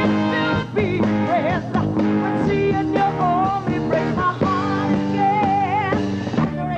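A live rock band playing, with a sung melody whose held notes waver with vibrato over a steady bass and accompaniment.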